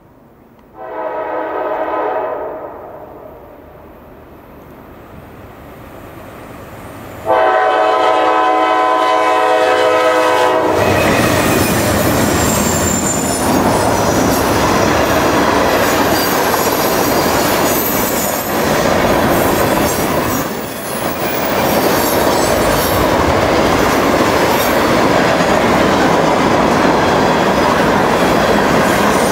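Freight locomotive air horn sounding two blasts, about two seconds and then three and a half seconds long, the second louder, as the train nears a grade crossing. The train then passes close by with a loud, steady rumble and clatter of its wheels on the rails.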